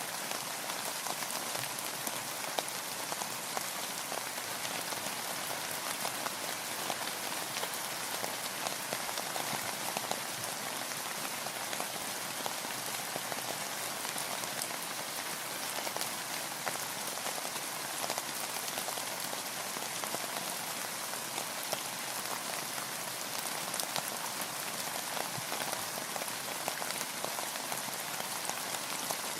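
Steady rain falling on a boat, with many separate drops striking close by in a continuous even hiss.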